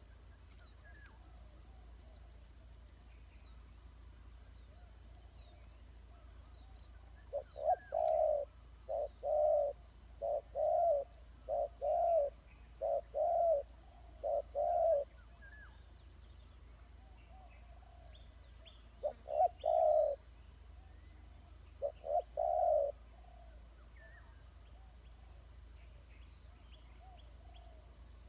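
A dove cooing in low, repeated notes: a run of about a dozen coos over some eight seconds, then two short groups of two or three coos. Faint small-bird chirps sound in the background.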